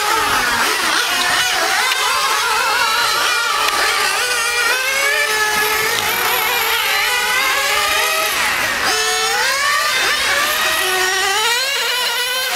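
Small high-revving engine running under test, its pitch constantly rising and falling as the throttle is worked up and down, with a quick climb in revs about nine seconds in.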